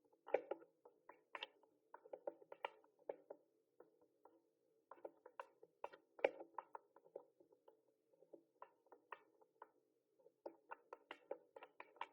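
Typing on a mechanical keyboard: fast, irregular keystroke clicks in runs, with a couple of brief pauses.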